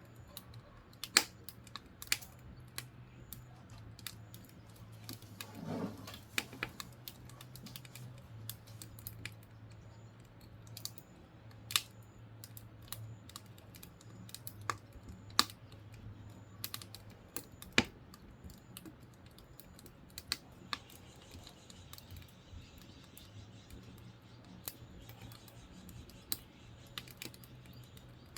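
Firewood burning with irregular sharp crackles and pops, over a low steady hum that drops out for a few seconds past the middle.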